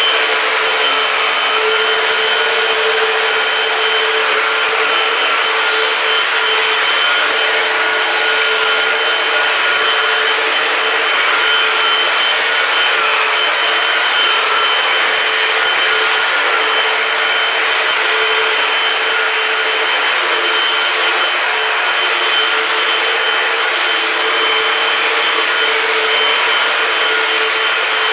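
Eureka AirSpeed Multicyclonic Pet upright vacuum cleaner running steadily on a kitchen floor: a constant rush of suction with a steady motor whine over it.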